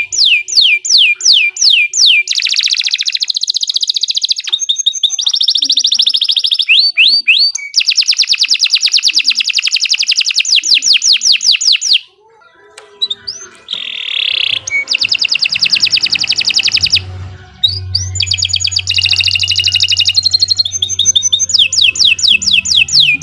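Domestic canary singing long, rapid trills: runs of fast repeated sweeping notes lasting several seconds each, with a brief break about halfway through.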